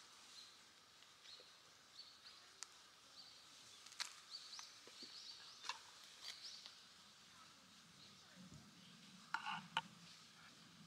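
Quiet outdoor ambience with faint, scattered bird chirps and a few small clicks, and one brief bird call about nine seconds in.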